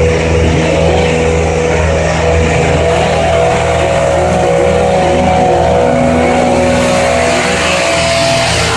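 A loud engine running steadily, its pitch shifting a couple of times.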